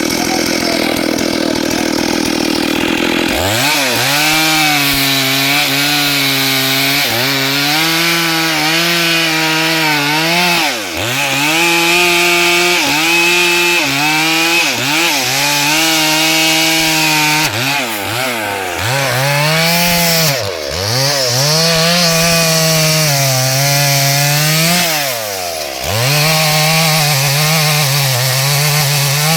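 Two-stroke chainsaw running hard through wood. After a few seconds of rushing noise, the high engine note comes in strongly about three seconds in and dips in pitch again and again as it takes load in the cut, recovering each time.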